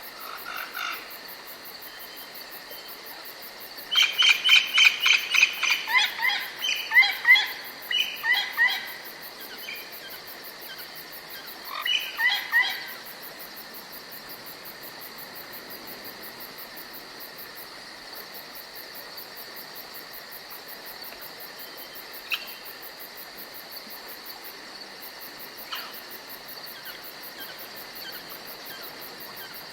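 Forest night ambience: a steady high chirring of crickets and other insects, broken about four seconds in by a bird's rapid series of loud, repeated calls that slow down over about five seconds, with a shorter burst of calls a few seconds later.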